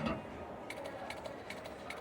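Slot machine spin: a soft thump at the start, then a quick series of short chiming ticks from about a second in, a few per second, as the reels spin and stop.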